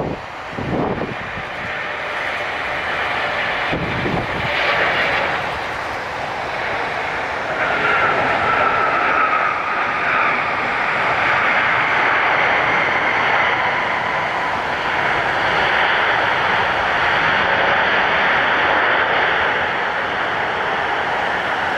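Jet airliner engines running loud and steady, with a brief whine about a third of the way in. A few low thumps come in the first few seconds.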